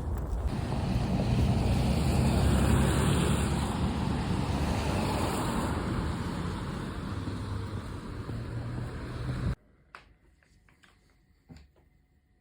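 Wind buffeting the microphone: a steady rush of noise that cuts off abruptly near the end, leaving only a few faint clicks.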